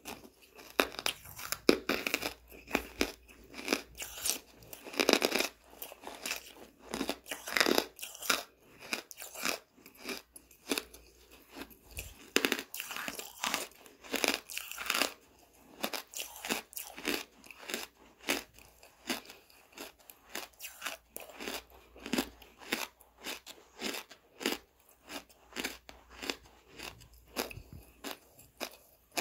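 Soft charcoal being chewed close to the microphone: a continuous run of irregular crunches.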